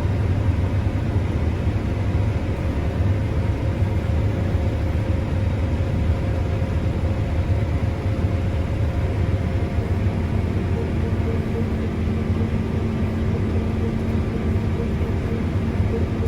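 Combine harvester running steadily, heard as a low, even engine rumble with a constant hum. A second, higher steady hum comes in about ten seconds in.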